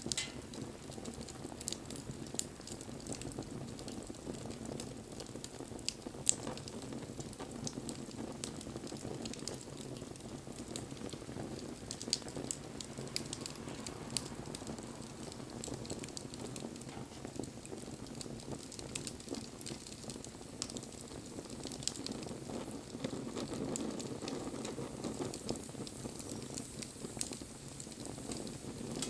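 Wood bonfire burning: a steady low rushing of the flames with scattered crackles and pops of burning wood, one sharper pop about six seconds in.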